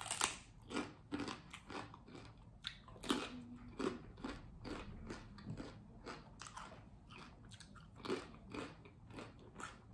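A crisp tortilla chip bitten off with a crunch, then chewed with a steady run of crackly crunching; a second sharp crunch comes about three seconds in.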